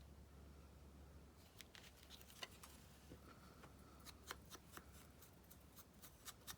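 Faint, irregular small clicks and rustles of paper pieces being handled, over a steady low hum.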